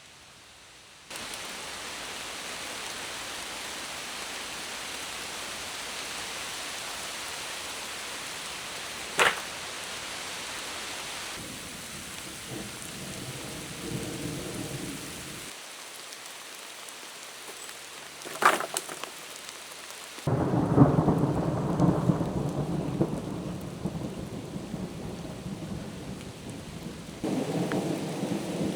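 Heavy rain pouring steadily in a thunderstorm. Two sharp cracks stand out around the middle, and in the last third the rain grows louder with a low rumbling of thunder.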